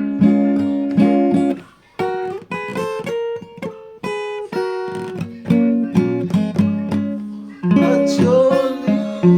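Acoustic guitar music: strummed chords, a short break about two seconds in, then single picked notes and chords.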